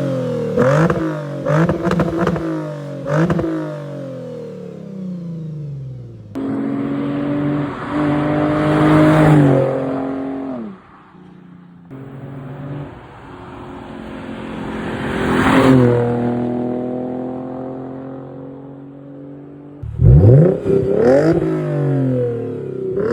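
Lexus IS350's 3.5-litre V6 with a muffler delete, its exhaust revving. It opens with several quick throttle blips, then makes two long climbs in revs that each fall back, and ends with more quick blips.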